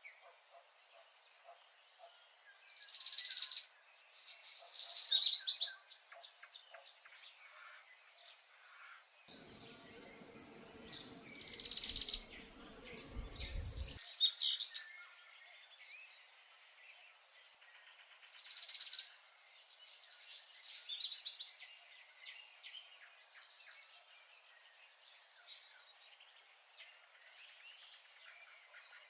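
A songbird singing short, bright phrases, each a fast trill ending in a quick flourish, repeated in pairs about every few seconds. A low rumble runs underneath for about five seconds in the middle, ending in a deep thump.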